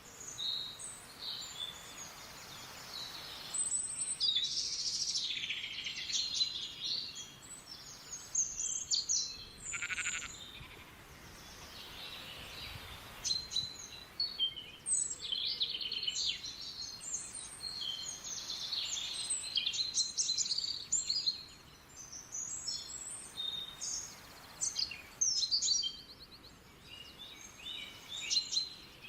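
Several songbirds chirping and singing, with many short high calls and trills overlapping, over a soft steady background hiss.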